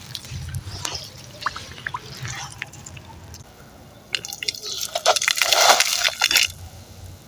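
Wet, gritty sand-cement crumbling: scattered crunchy clicks at first, then a dense crackling burst a little past halfway that is the loudest part, before it stops.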